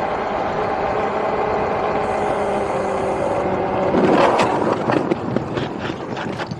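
Steady road and wind rush of an e-bike running along a freeway. About four seconds in there is a loud rush, then a rapid clicking that slows as the bike coasts to a stop: the rear tire has just gone flat.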